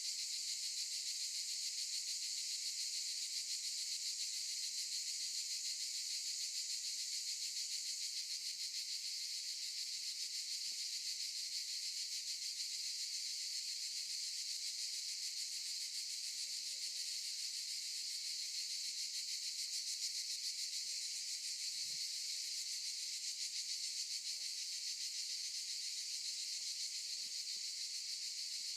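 Cicadas singing in chorus: a steady, high-pitched, unbroken buzz.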